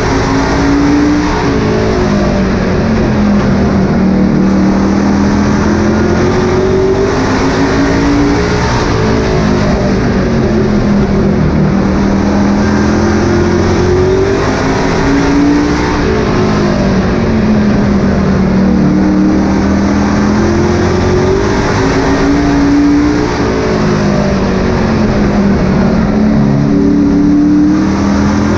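Race truck engine running hard around a short oval, its pitch repeatedly rising as it accelerates and falling as it lifts, several times over.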